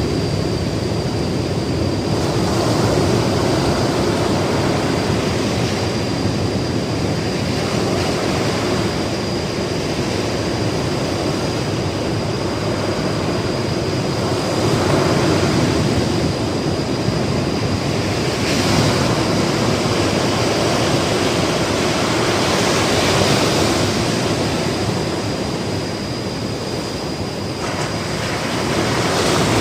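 Ocean waves breaking and washing up the beach in a continuous surf, surging louder every few seconds. A thin, steady high tone runs through it.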